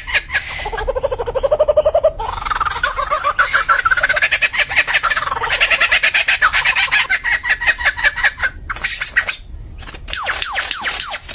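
A bird singing long runs of fast, repeated chirps and trills that switch abruptly from one pattern to another every few seconds.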